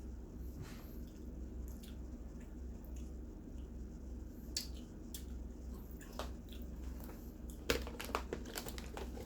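Close-up eating sounds: chewing and small mouth clicks, with scattered crinkles as food is handled, over a steady low hum. A cluster of sharper clicks comes near the end.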